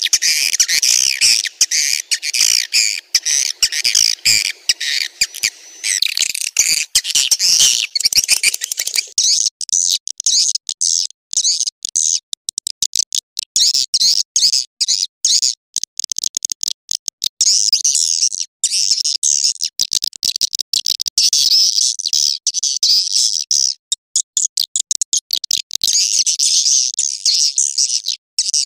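Swiftlets (walet) calling in a dense, rapid chatter of high chirps. This is a swiftlet lure call, the sound played at swiftlet houses to attract the birds.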